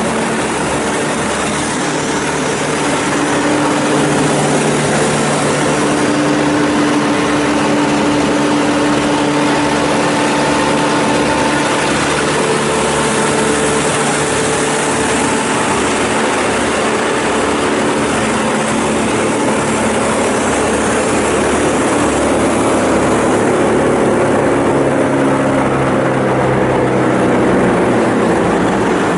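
Morbark 2400XL 18-inch drum wood chipper running with its Perkins four-cylinder turbo diesel and the chipper engaged: a loud, steady engine and spinning-drum sound.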